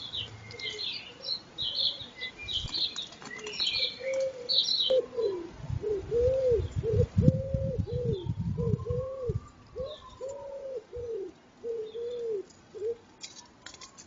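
Wood pigeon cooing a run of low, evenly spaced notes, with a flurry of wing flaps in the middle. Small songbirds chirp high in the first few seconds.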